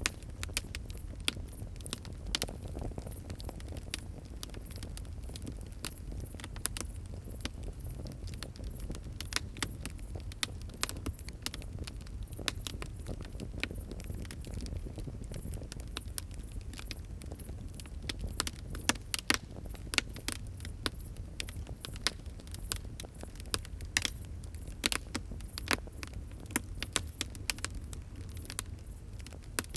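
Fire crackling and popping: irregular sharp snaps over a low steady rumble of the flames, with a cluster of louder pops past the middle.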